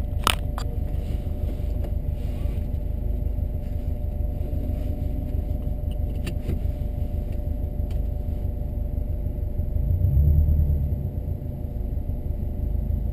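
1993 Subaru Legacy turbo's flat-four engine idling steadily, heard from inside the cabin, with a brief swell in the low rumble about ten seconds in. A few sharp clicks near the start.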